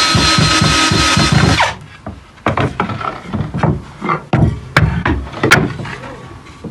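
A loud steady sound with a fast pulsing beat cuts off suddenly about a second and a half in. It is followed by a run of irregular sharp knocks and taps of wood and tools at a woodworking bench.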